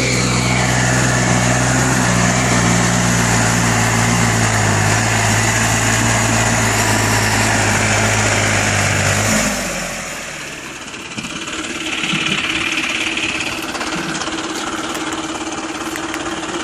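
Diesel tractor engine running loud and steady under a low, heavy note. About nine seconds in, that note drops away and a quieter, higher steady engine hum carries on.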